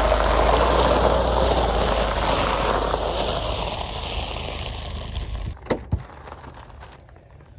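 Car tyres rolling over gravel, the noise dying away as the car slows, then two short clicks near the end.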